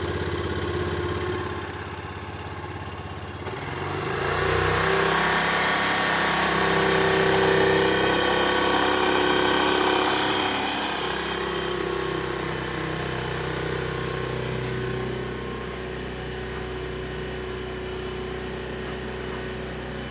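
Yamaha Grand Majesty 250 scooter's single-cylinder four-stroke engine running. About four seconds in it is brought up to a higher, louder speed and held there for several seconds, then it settles back to a steady idle.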